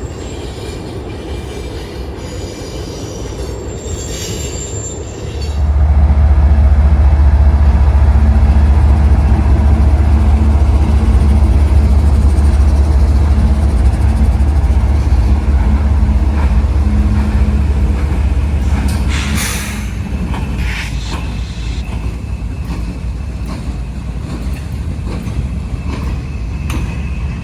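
CSX freight train passing on the rails, with a faint high wheel squeal at first. About five and a half seconds in, the sound jumps to a loud, steady deep rumble, with a few sharp clanks past the middle.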